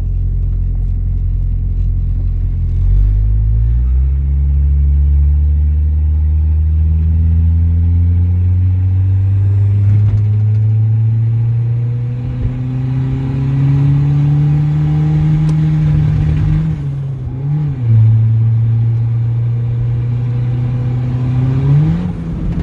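Turbocharged Honda Civic engine pulling under acceleration, its pitch climbing slowly for about twelve seconds. It then dips and wobbles briefly, runs steady, and gives a short blip near the end.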